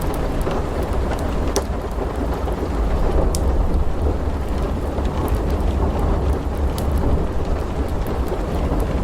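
Steady rain under a continuous low thunder rumble, with sparse, sharp crackles of a wood fire in a fireplace popping at irregular moments.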